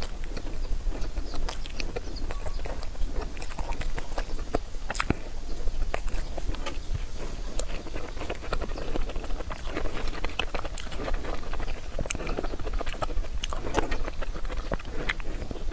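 Close-miked biting and chewing of a spiral-rolled cake slice, with many small clicks of the mouth throughout.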